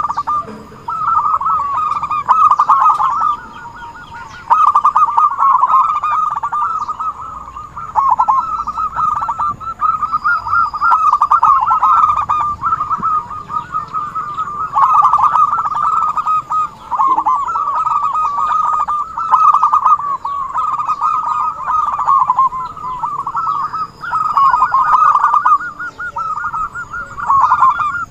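Zebra dove (perkutut) cooing: rapid runs of soft stuttering coo notes, in phrases of a few seconds each with short pauses between.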